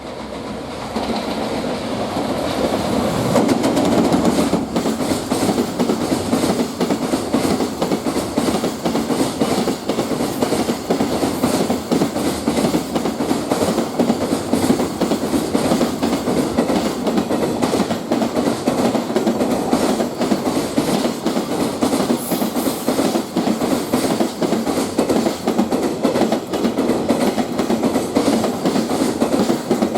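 Freight train running through a station at speed. The wagons make a steady rumble over a rapid, continuous patter of wheel clicks. The sound swells over the first few seconds as the train arrives.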